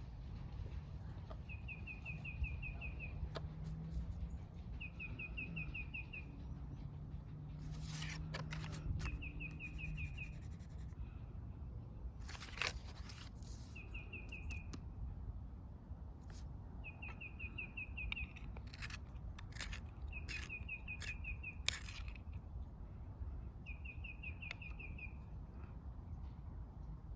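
A songbird repeating a short, fast trill about every three seconds, over scattered scratchy strokes of coloring on paper. A low steady hum sounds through the first third and then stops.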